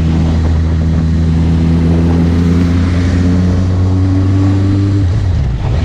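Suzuki GSX650F's inline-four engine running while riding, its pitch creeping slowly upward, then the note drops and changes about five seconds in, with wind hiss throughout.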